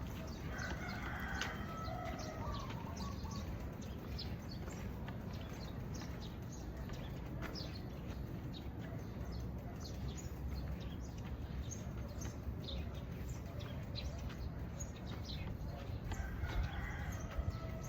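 Outdoor morning ambience: many short, high bird chirps over a steady low rumble, with a longer wavering animal call about a second in and again near the end.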